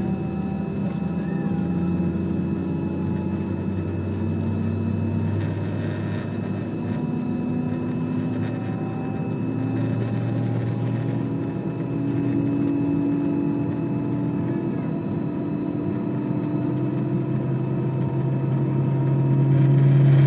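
Airbus A320 jet engines at low taxi thrust, heard as a steady hum inside the cabin, with whining tones that slowly drift up and down in pitch. The low hum grows louder near the end.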